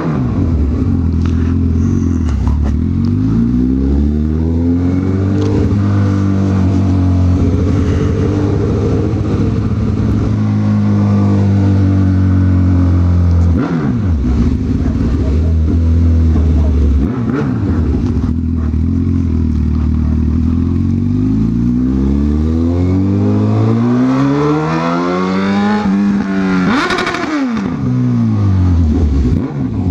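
Honda CB1000R's inline-four engine under way, revs climbing and falling repeatedly as the rider accelerates, shifts and rolls off the throttle, with several short drops in engine speed.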